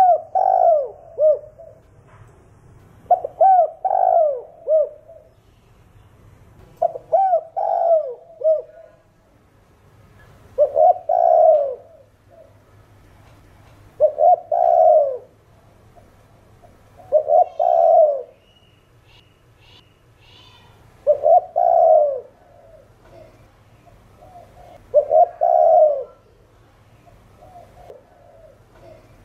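Spotted dove giving its advertising coo, the 'gáy' call: about eight phrases of low coos, one every three to four seconds, the first few phrases of several short notes and the later ones one longer note.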